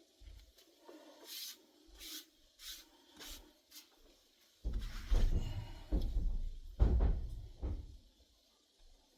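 Edge beveler shaving the edge of a leather strap in several short scraping strokes, about two a second. About halfway through come a few seconds of louder bumping and rubbing as the leather and tool are handled on the bench.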